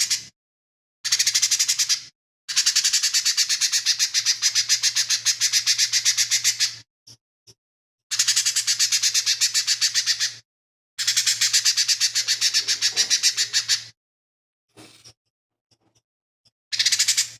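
Lesser green leafbird (cucak ijo mini) singing in bursts of fast, evenly repeated chattering notes, several notes a second. Each burst lasts from about one to four seconds, with short silent gaps between.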